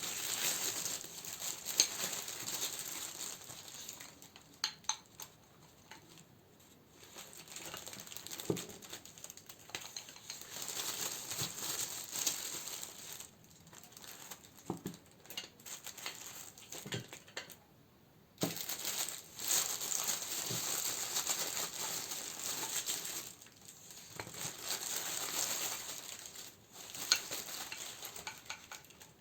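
Plastic and paper packaging crinkling and rustling as candles are handled and sorted, with scattered sharp taps and a couple of brief pauses.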